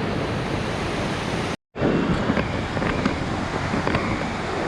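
Steady rush of the river running over rocks and through the falls, a loud even wash of water noise. It breaks off for a moment about a second and a half in, then carries on.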